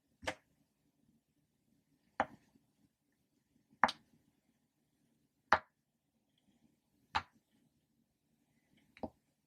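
Popper toys popping: six short, sharp pops at roughly even intervals of about one and a half to two seconds.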